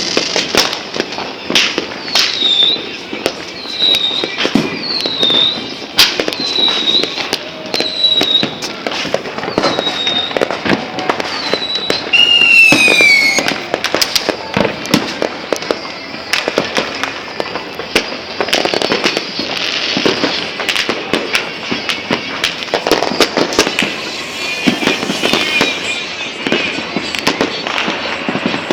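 New Year fireworks and firecrackers going off continuously in a dense crackle of bangs and pops. From about two seconds in, a short high falling whistle repeats about once a second, and near the middle a longer whistle falls in pitch.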